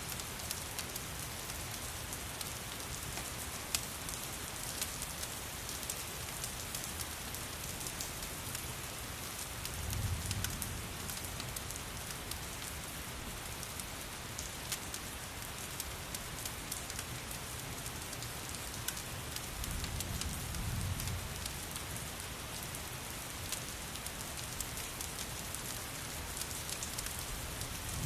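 Steady rain mixed with the crackle of a wood fire, many small sharp pops over a constant hiss. A low rumble swells up twice, about ten and twenty seconds in.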